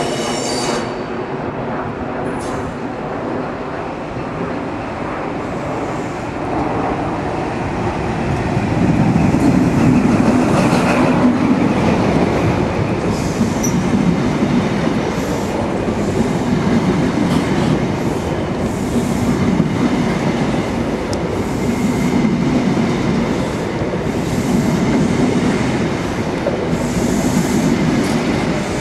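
InterCity 125 (HST) train running slowly into the platform. The class 43 diesel power car grows louder as it comes in, then the Mark 3 coaches roll past, wheels clacking over the rail joints and points, with occasional wheel squeal.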